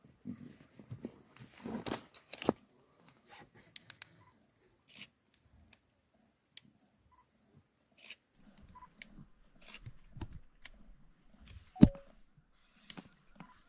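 Lions making scattered short low growls and grunts, with a sharp knock near the end, over a steady high thin hum.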